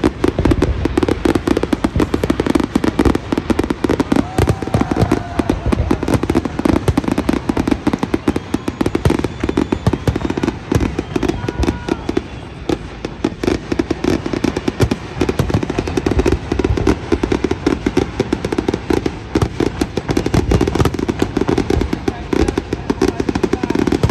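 Fireworks display: aerial shells bursting and crackling in a dense, unbroken barrage of bangs, many a second.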